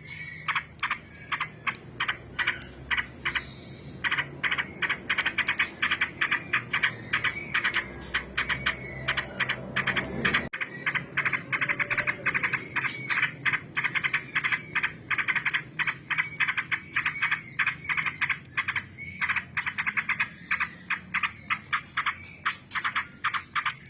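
Yellow-vented bulbul (trucukan) singing a long churring chatter: rapid runs of short, sharp repeated notes, several a second, that go on almost without a break.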